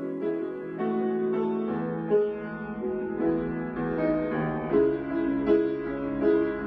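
Solo keyboard instrumental music, piano-like, with chords and a melody moving in held notes that change every half second or so.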